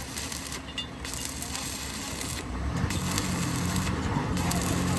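Repeated rasping, scraping strokes on a surface, with a short pause between strokes every second and a half or so. A low, steady engine hum comes in about halfway through and grows louder.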